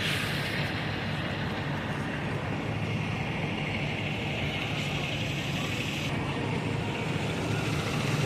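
Steady city street traffic noise: a low hum of vehicle engines idling and moving, with a broad hiss of tyres and street ambience.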